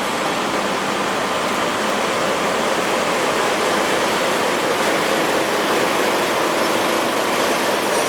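Steady running noise inside a locomotive-hauled passenger coach on the move: an even rush of wheel, rail and air noise with no distinct knocks.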